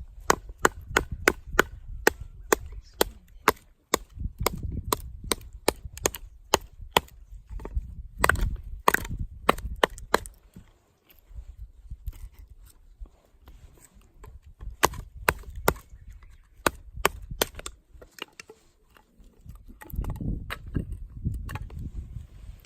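Rapid chopping strokes on wood, about three sharp knocks a second, in runs broken by short pauses.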